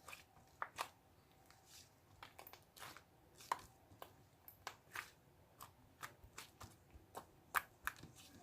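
Faint, irregular small clicks and taps, about two or three a second, like small objects being handled.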